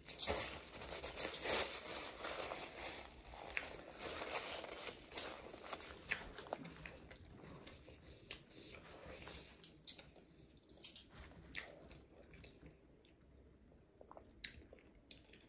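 Close-up chewing of fast food, with wet crunching for the first six or seven seconds, then scattered small mouth clicks that grow fainter.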